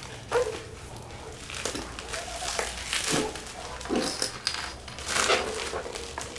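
Plastic packaging crinkling and rustling in irregular handling noises while a humidifier is unpacked, with a few sharper crackles.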